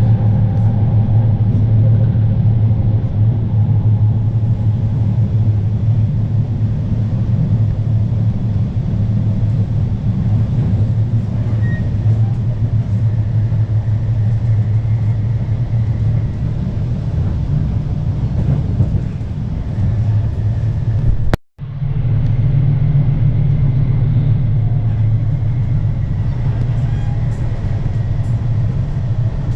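Steady low rumble of a commuter train running, heard from inside the carriage. It breaks off for an instant about two-thirds of the way through, then carries on.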